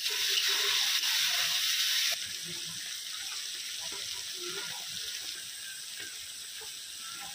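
Onions, tomatoes and potato sizzling in hot oil in a black iron karahi over a wood fire. The sizzle is louder for about the first two seconds, then drops suddenly to a softer steady hiss.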